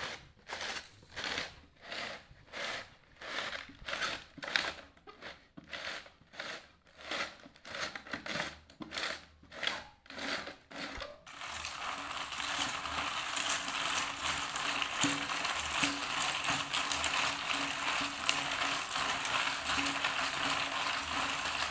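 Ice cubes packed with salt in a bucket crunching and grinding as a tin can is twisted in them, in regular strokes about twice a second. About eleven seconds in it switches suddenly to a steady, dense noise.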